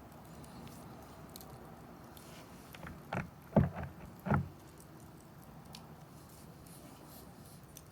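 Wood fire in a fire pit stand burning with a soft crackle and faint scattered pops. About three seconds in comes a quick run of three or four louder short sounds over a second and a half.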